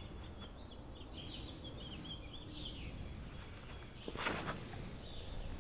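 A songbird singing a quick run of short warbled notes, over a steady low outdoor background. About four seconds in there is a single brief loud noise.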